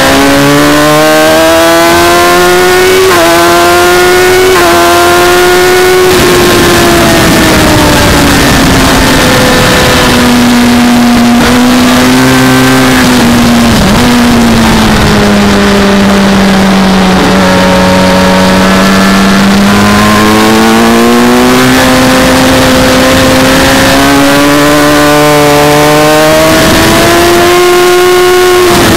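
Sport motorcycle's engine heard from onboard at track speed, its pitch rising and falling with the throttle: high at first, dropping about six seconds in, staying low for a while, then climbing steadily toward about 10,800 rpm near the end. Heavy wind and road noise runs under the engine.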